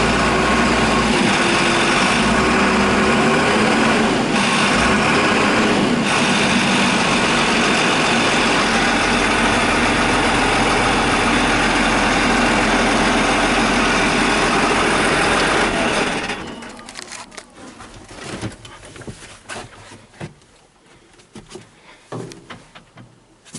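Case IH Steiger 335's 8.9-litre turbocharged six-cylinder diesel engine running steadily. About two-thirds of the way through the engine noise dies away, leaving scattered quiet clicks and knocks.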